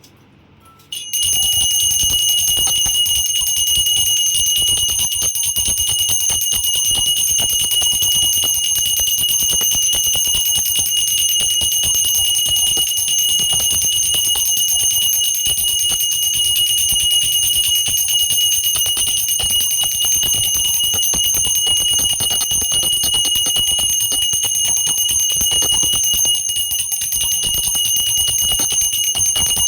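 A high-pitched bell ringing continuously and evenly, with a fast rattling strike, starting about a second in.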